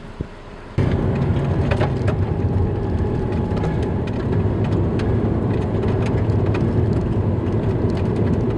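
Rain striking a vehicle in a storm over steady road and wind noise. Scattered sharp ticks of the drops sit over a loud, even rumble. It begins abruptly about a second in.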